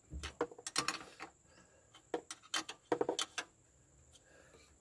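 Open-ended spanner clicking and knocking against a bolt and metal bracket as it is worked one flat at a time in a tight space: a handful of short clicks in irregular groups, dying away after about three and a half seconds.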